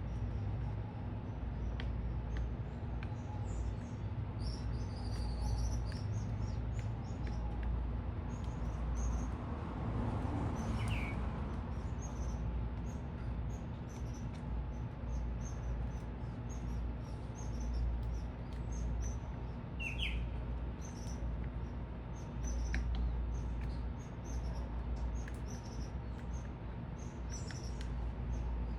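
Small birds at a feeder chirping continually in short, high calls, with a few lower rising calls now and then. Underneath runs a steady low city rumble that swells briefly about a third of the way in.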